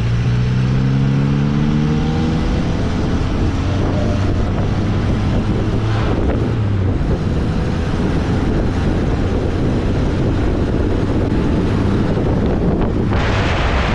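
1275cc MG Midget's four-cylinder engine running at road speed in the open-top car, under heavy wind and road noise. The engine note shifts in pitch in the first couple of seconds, then settles into a steady drone.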